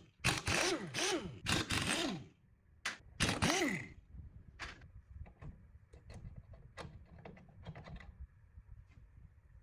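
Hand work on metal parts: a run of scraping strokes with squeaky tones that rise and fall, a second scrape about three seconds in, then scattered light clicks and taps.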